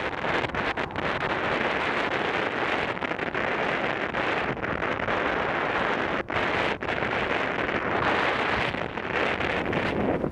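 Strong wind buffeting the microphone: a steady, dense rush with a couple of brief dips about six seconds in.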